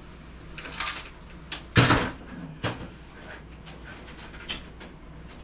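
Several knocks and clatters of metal computer parts being handled, the loudest about two seconds in.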